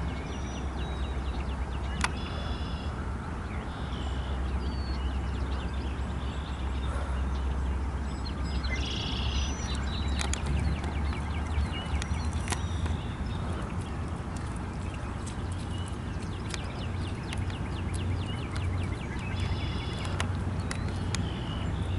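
Birds chirping off and on, with a few sharp ticks, over a steady low rumble.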